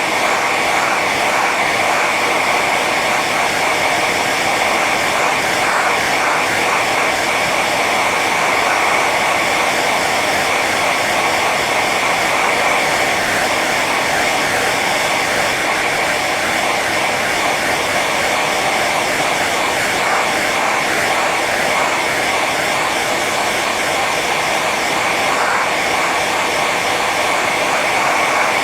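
Hair dryer running on its high setting: a steady whoosh of blown air with a motor whine.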